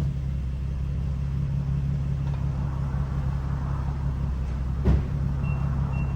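Infiniti G37's 3.7-litre V6 idling steadily just after starting, with an exhaust leak at the gaskets between the manifolds and the high-flow cats, which the owner puts down to reused old gaskets. A short knock about five seconds in and a few faint high beeps near the end.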